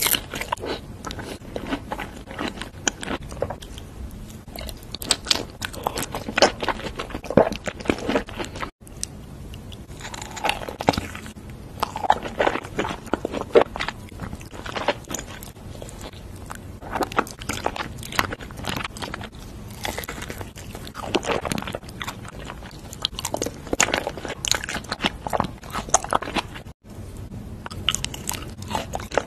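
Close-miked eating sounds: biting into and chewing fruit-filled mochi (strawberry and grape daifuku), a dense run of wet mouth clicks and crackles. Two very short dropouts break it, at about a third of the way in and near the end.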